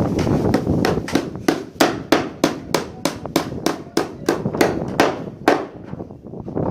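Carpenter's hammer striking repeatedly during woodwork, a steady run of sharp blows at about three a second that stops a little over five seconds in.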